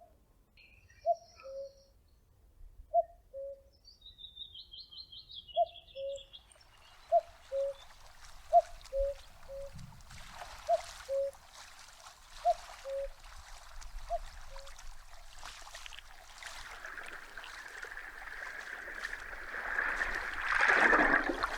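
Common cuckoo calling its two-note 'cuck-oo', high then low, about ten times at roughly one call every second and a half, then falling silent two-thirds of the way through. A short high trill of another small bird comes a few seconds in. The sound of running water builds from about a third of the way through and is loudest near the end.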